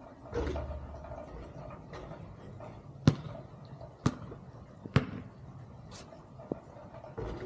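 A basketball bouncing: a run of sharp bounces about a second apart in the second half, after a brief low whoosh about half a second in.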